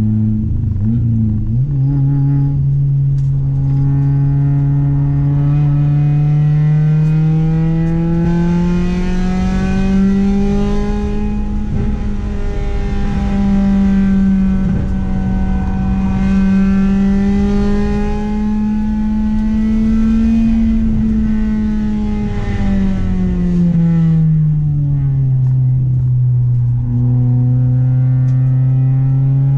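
Honda H22A 2.2-litre DOHC VTEC inline-four engine running hard on track. The pitch climbs steadily over the first several seconds, holds high for a long stretch, falls as the driver eases off a little past the two-thirds mark, then starts to rise again.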